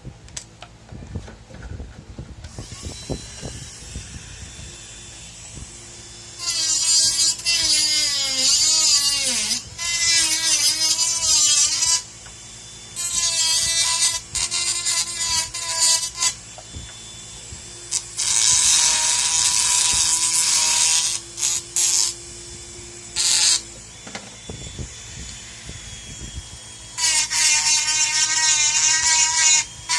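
Small high-speed rotary handpiece, as used in a dental lab, grinding and trimming an acrylic denture. It runs in several spells of a few seconds each with a high whine whose pitch dips and wavers as the bur bears on the work, and a few short blips in between.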